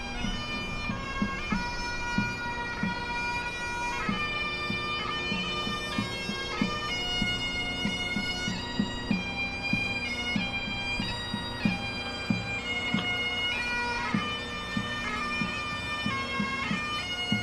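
Bagpipes playing a tune over their steady drones, the melody stepping from note to note.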